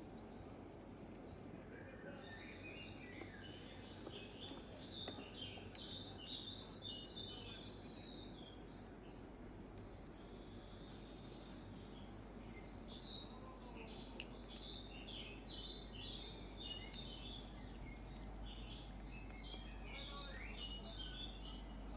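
Small birds chirping: many short, high calls in quick succession, busiest about a quarter to halfway through, over a steady low background rumble.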